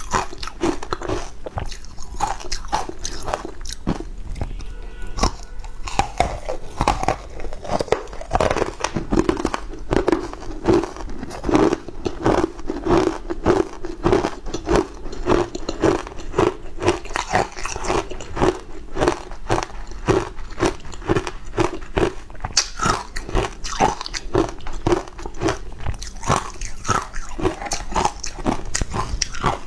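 Close-miked crunching and chewing of a crumbly green frozen sweet, with many crisp crunches in quick succession.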